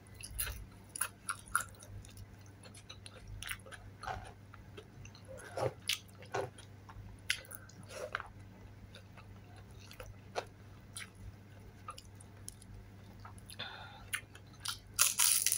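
Close-up chewing of fried chili spring rolls (dynamite lumpia): soft wet mouth sounds with scattered small crackles from the crisp wrapper. A louder crunchy bite comes near the end.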